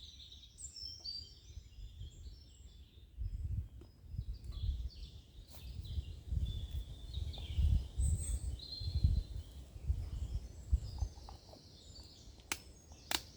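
Small woodland birds chirping and singing, over low uneven rumbling. Two sharp knocks come close together near the end.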